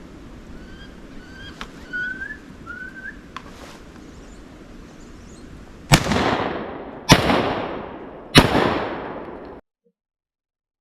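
Several short rising squealing whistles of wood ducks, then three shotgun shots about a second and a quarter apart, each ringing out as it fades. The sound cuts off suddenly shortly after the last shot.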